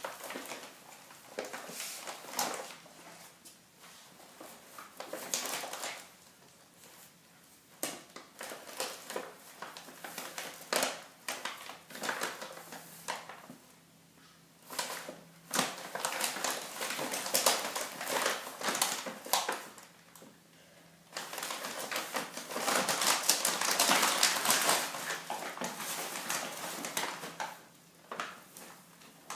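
A bag rustling and crinkling as a cat moves about inside it, in irregular bursts with sharp crackles, including a longer stretch of steady rustling about two-thirds of the way in.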